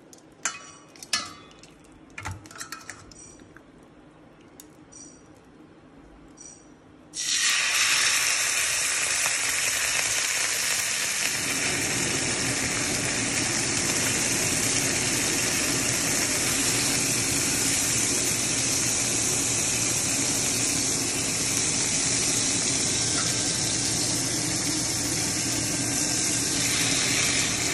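A few light clinks, then about seven seconds in, teriyaki-marinated chicken pieces hit hot oil in a non-stick frying pan and start sizzling loudly. The frying sizzle stays steady from then on.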